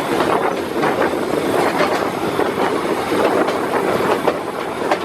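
Wine train rolling along the track, heard from on board: a steady rumble of the moving cars, with wheels knocking faintly on the rails.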